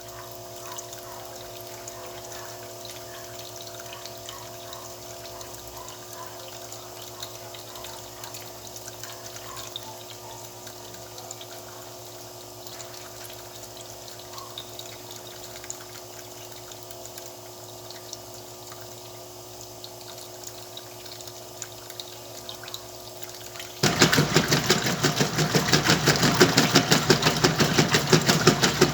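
Whirlpool washing machine filling with water: a steady running-water sound with a faint steady hum. After about twenty-four seconds the wash motor kicks in abruptly and the drum starts agitating, a much louder, fast rhythmic churning, the start of the wash cycle.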